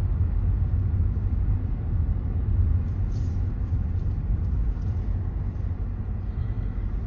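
Steady low rumble of a moving vehicle: engine and road noise while driving.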